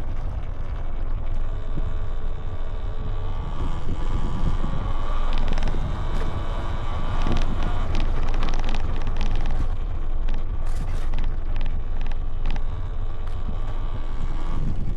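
Wind buffeting the microphone on the handlebars of a Talaria Sting R MX4 electric dirt bike as it rides over a dry lake bed. A faint steady whine comes through, with a few sharp clicks and knocks in the last few seconds as the bike goes over rough ground.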